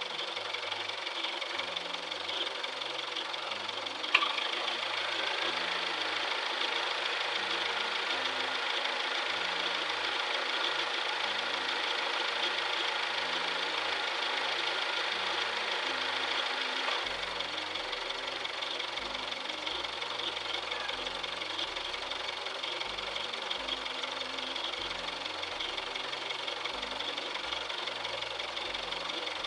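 Mitsubishi Adventure engine idling steadily with the radiator cap off, run to burp air out of the freshly refilled cooling system while it warms up. A single sharp click about four seconds in.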